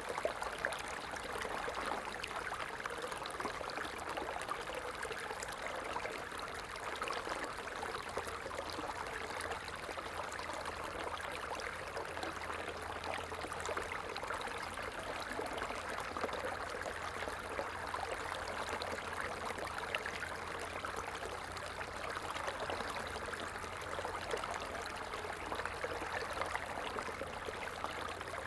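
A small stream flowing steadily, a continuous rushing and trickling of water.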